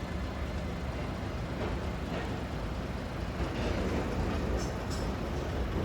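Buses and street traffic running as a steady low rumble, with a few short hisses near the end.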